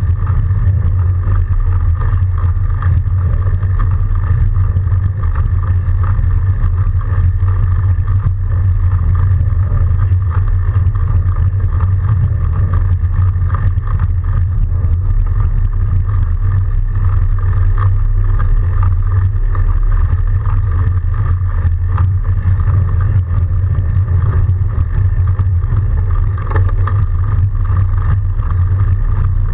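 Steady low rumble of an electric-assist fat bike being ridden through snow, picked up by a camera on the bike, with a fainter steady hum above it.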